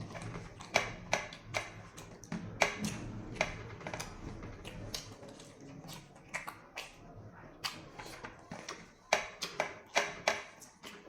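Close-up eating sounds: a person chewing with a string of sharp, irregular crunches and mouth clicks, a few a second.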